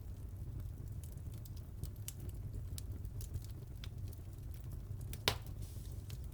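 Fireplace fire crackling: scattered small clicks over a steady low rumble, with one loud pop about five seconds in.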